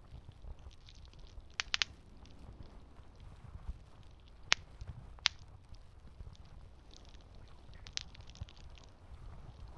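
Campfire crackling: burning wood giving off scattered sharp pops over a low steady rumble, a quick run of three pops about a second and a half in, two loud single pops around the middle, and another small cluster near the end.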